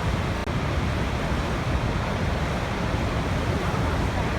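Waterfall: falling water in a steady, even rush, heaviest in the low end.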